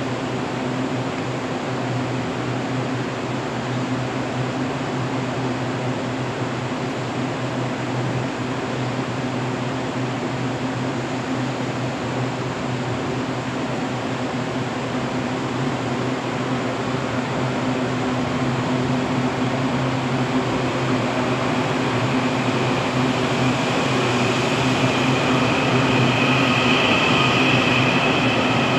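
EMU800 electric multiple unit at the platform, a steady electrical and air-conditioning hum. It grows louder through the last third, and a high whine joins near the end as the train begins to pull out.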